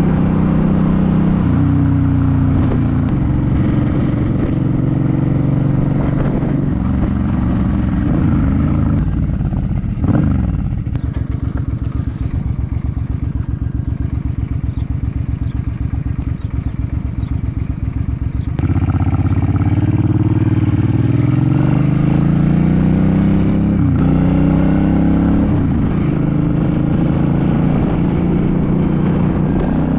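2006 Suzuki C50 V-twin cruiser engine under way, its pitch rising and stepping through gear changes. About ten seconds in, the throttle closes and the engine drops to a slow, even idle for several seconds. It then pulls away again, the pitch climbing through the gears.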